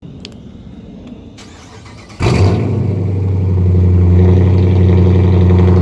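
Chrysler 300S's Hemi V8 through a straight-pipe exhaust starting up. It fires with a sudden loud bark about two seconds in and settles into a loud, steady idle.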